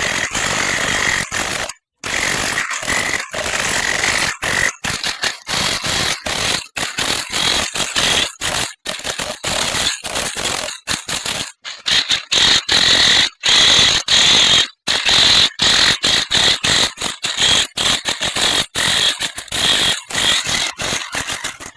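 Loud, harsh mechanical noise with a faint high whine, broken again and again by sudden short dropouts.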